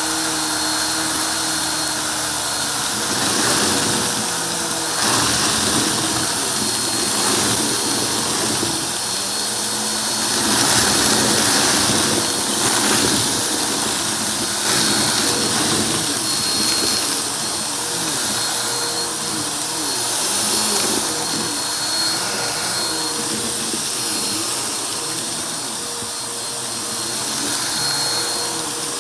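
Vacuum cleaner running steadily, its motor giving a constant whine. Irregular crackling and rattling runs through it throughout, as it sucks up crunchy debris.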